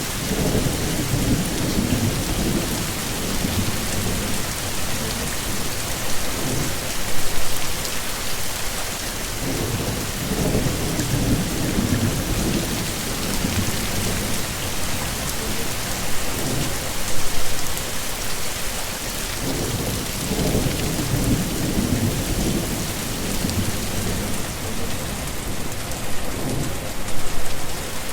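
Steady heavy rain hissing, with low rolling rumbles of thunder swelling up three times, about ten seconds apart.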